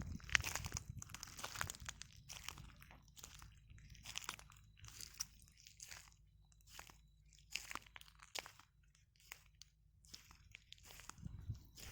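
Footsteps in flip-flops crunching over a beach of broken shells: an irregular run of sharp crunches, dense and louder in the first couple of seconds, then sparser and softer, with a louder cluster near the end.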